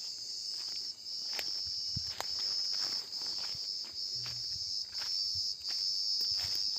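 A chorus of night insects, crickets, trilling as one steady high-pitched drone that dips briefly now and then. Scattered soft clicks and rustles run underneath it.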